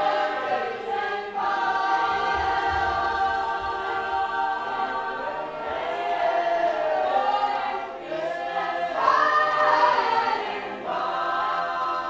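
Choir singing a cappella: many voices holding sustained chords that shift every second or two, with a higher voice line swooping up and falling back near the end.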